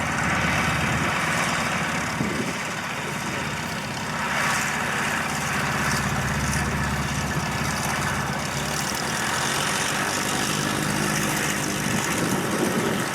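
Piston engine of a propeller aircraft running steadily at low speed, its pitch holding level.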